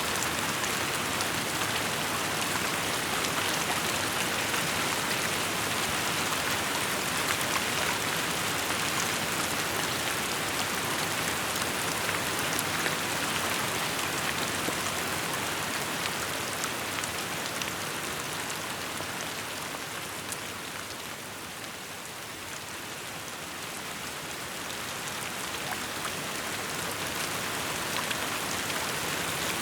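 Steady rainfall, an even hiss with many small drop patters on surfaces; it eases off a little for a few seconds past the middle and then builds back.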